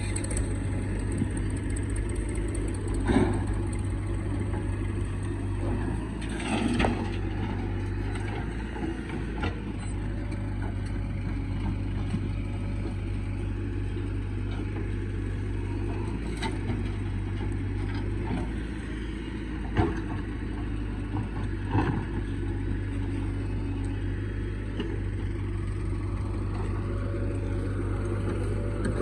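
Heavy diesel engine running steadily at work, with a few sharp knocks and clanks scattered through.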